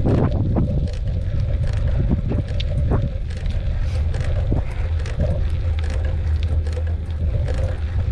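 Wind buffeting the microphone of a mountain bike rider climbing in low gear, a steady low rumble with scattered short clicks and rattles from the bike on the trail.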